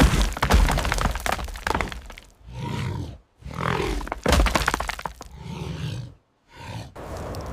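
Loud cracking and breaking sounds in several bursts with brief pauses between them.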